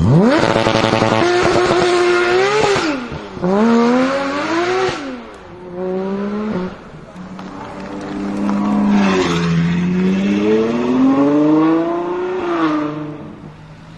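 Supercar engine accelerating hard: the revs shoot up at the start, climb and drop sharply at quick gear changes about three and five seconds in, then build again slowly to a peak near the end before falling away.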